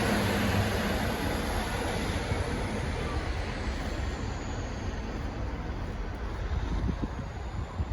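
A train running past, its noise slowly fading as it moves away, with a faint high whine falling in pitch.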